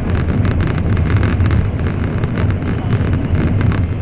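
Steady low rumble of an N700 series Shinkansen running at speed, heard from inside the passenger car.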